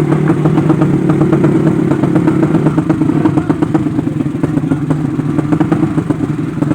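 Yamaha 5TP motorcycle engine running at a steady, fairly low pitch, with a fast, uneven ticking over it.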